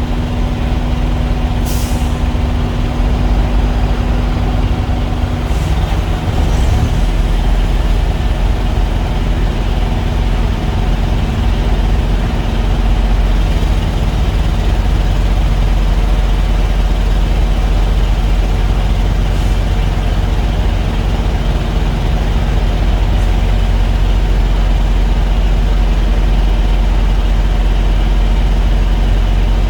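Diesel engine running steadily, getting a little louder and deeper about six seconds in, with a few brief clicks or hisses over it.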